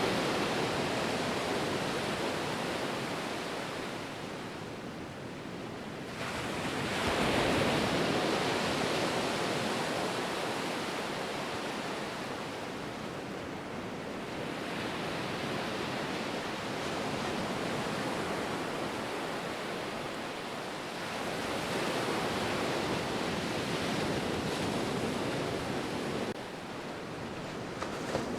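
Ocean surf: waves breaking and washing up the shore, the rush swelling and easing every several seconds, with a sudden change in the sound about six seconds in and again near the end.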